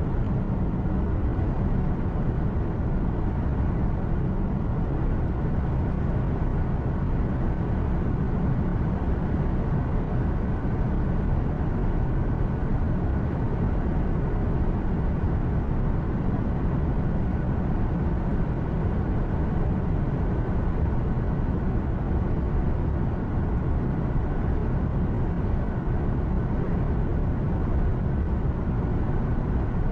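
Truck cab interior noise while driving: a steady engine drone and road rumble, even throughout.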